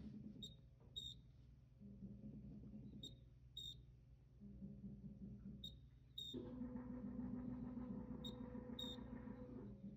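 Frigidaire appliance chirping: pairs of short high-pitched chirps about half a second apart, repeating roughly every two and a half seconds over a low hum. A louder steady hum comes in a little past halfway and stops near the end.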